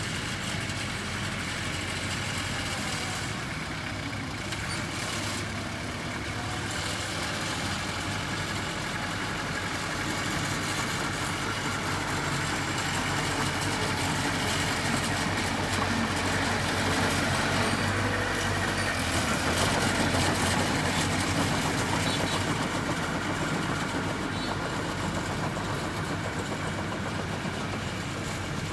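Heavy construction machine's engine running steadily, growing louder from about halfway in and easing off again near the end.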